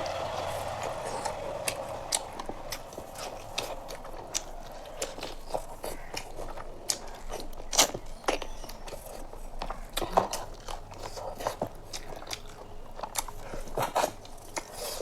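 Close-miked eating: biting into a piece of chicken and chewing, with many short, sharp wet mouth clicks and smacks.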